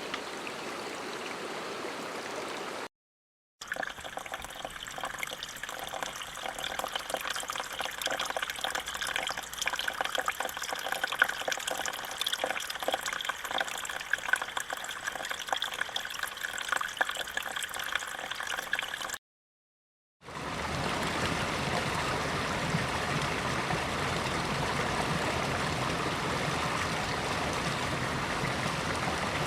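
Flowing water recordings played one after another, each cut off by about a second of dead silence: first a steady water sound, then a long stretch of trickling, bubbling water full of small splashes and drips, then the steady rush of a flowing stream.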